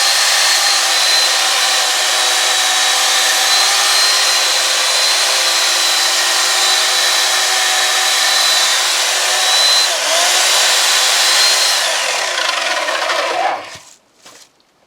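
Electric chainsaw running at full speed with a steady high whine, cutting small birch limbs. It winds down and stops near the end.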